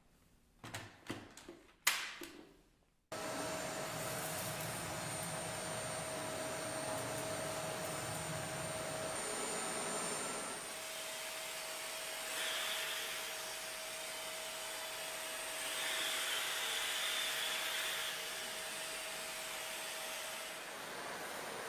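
A few light clicks and knocks, then about three seconds in a Dyson Ball Animal 2 upright vacuum cleaner's steady running noise with a steady whine starts abruptly. It gets briefly louder twice partway through.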